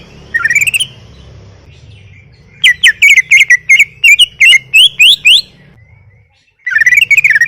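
Cucak ijo (green leafbird) singing loudly: a short chattering phrase, then a long run of about a dozen sharp rising whistled notes, roughly four a second, and another chattering burst near the end.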